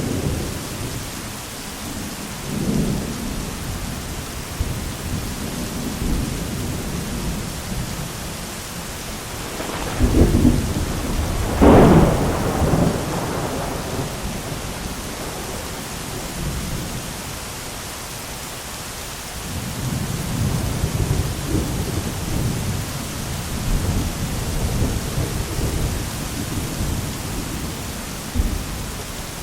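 Thunderstorm with steady rain hissing throughout and rolling thunder; a loud, close crack of thunder about ten to twelve seconds in, with long low rumbling later on.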